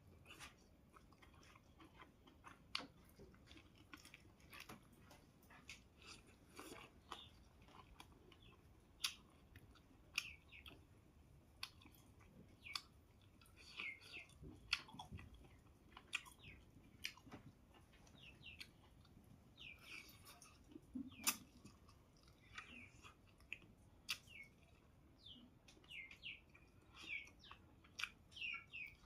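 A person eating, heard close: chewing with wet mouth clicks and smacks, irregular and faint.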